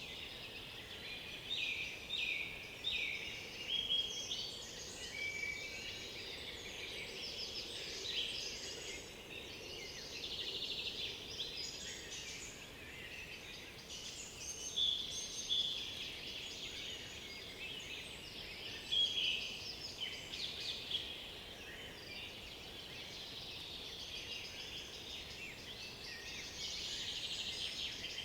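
Several songbirds singing at once, their songs overlapping without a break, with some louder nearby phrases standing out over the rest.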